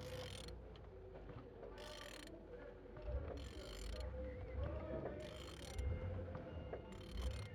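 Engine being turned over by hand: the rotating parts spin with a soft whooshing that comes in short strokes about every second and a half, over a low rumble.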